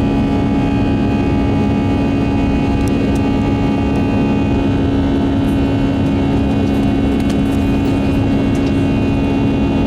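Steady drone of an Airbus A319 heard from inside the passenger cabin: the jet engines and airflow make a strong low hum with several steady higher tones over a constant rush.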